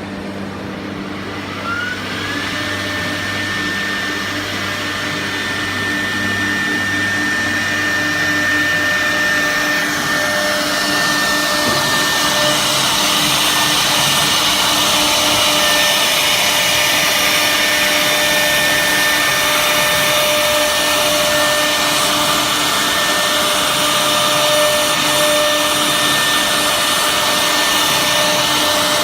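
6 kW HSD spindle of a CNC router running: its whine rises in pitch over the first few seconds, then holds steady at speed. A rushing noise builds from about ten seconds in and stays loud.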